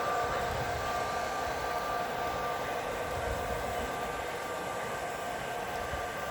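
A train running, with a steady rumble and a steady whine made of several high tones.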